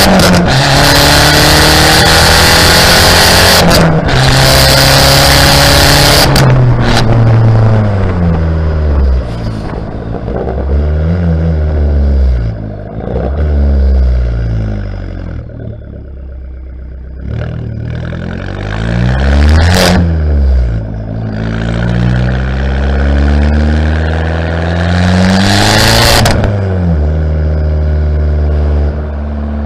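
Fiat Bravo 1.4 T-Jet turbocharged four-cylinder engine revved through its exhaust. It is held at high revs for the first six seconds or so, then drops and is blipped repeatedly, each rev rising and falling. The biggest rev comes about two-thirds through, and the engine settles back to idle near the end.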